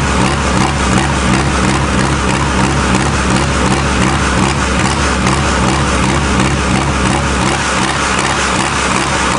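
Diesel engine of a mini tractor puller running steadily, with an even pulsing beat under a loud mechanical clatter.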